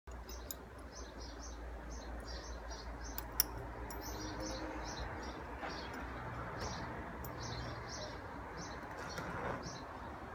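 A small bird chirping over and over, short high chirps a few times a second, with one sharp click about three and a half seconds in.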